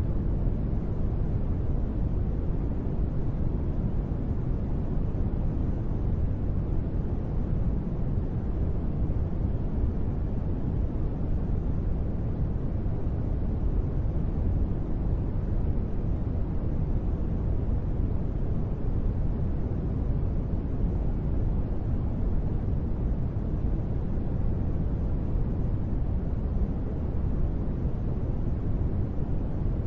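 Steady, unchanging sleep noise, deep and even with most of its weight in the low end and no separate drops or events, billed as gentle rain white noise.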